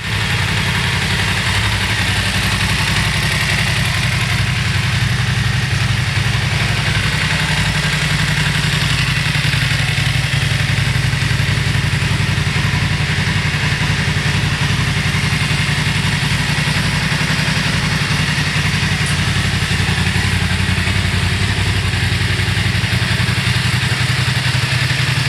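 BMW F900XR's parallel-twin engine idling steadily, with no revving.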